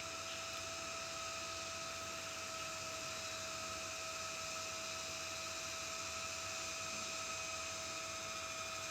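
Steady hiss with a constant electrical whine, unchanging throughout, with no other sounds standing out.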